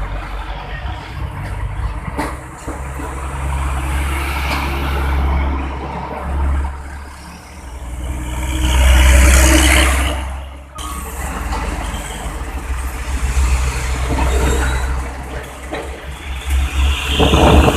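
Heavy trucks' diesel engines running and passing in road traffic, with a steady low drone. About halfway through, one vehicle grows loud with a hiss and the sound cuts off suddenly; another loud pass comes near the end.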